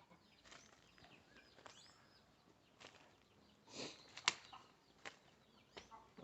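Chicks peeping with small, high, repeated chirps, faint throughout. About four seconds in comes a short rustling flurry, like wings flapping, ending in one sharp click, with a few lighter clicks after it.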